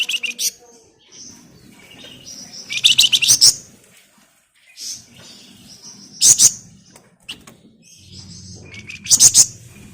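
Flamboyan songbird singing in four loud, rapid, harsh rattling bursts about three seconds apart (its dense 'ngebren' churring), with softer chirps between them.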